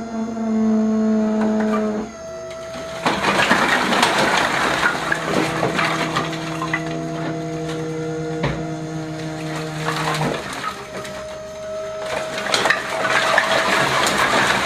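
Machinery running: a steady motor or engine tone that shifts pitch a few times, with loud rattling and clattering over it from about three seconds in and again near the end.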